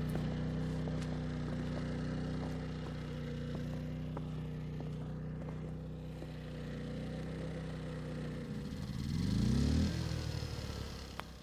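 An engine running steadily at a low, even pitch, then revving up about nine seconds in, its pitch rising and getting louder before dropping off.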